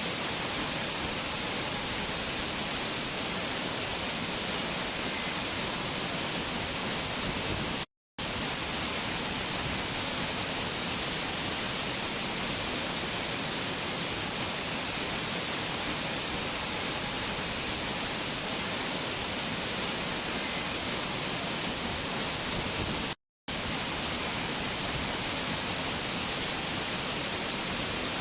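Steady rush of a waterfall, an even hiss of falling water, broken twice by a split-second dropout to silence.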